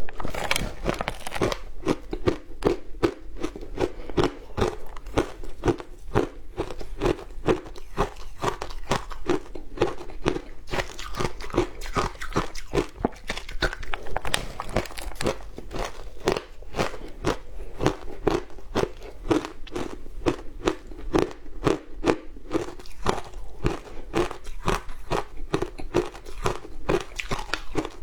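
Frozen matcha ice being bitten and chewed: a dense, unbroken run of crunches and cracks.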